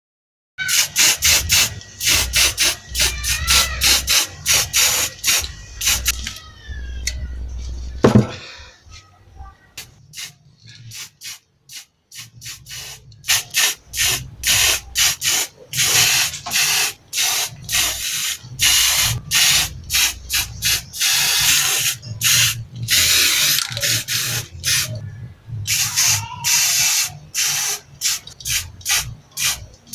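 Aerosol spray-paint can sprayed in many short hissing bursts, a few a second, with a pause near the middle.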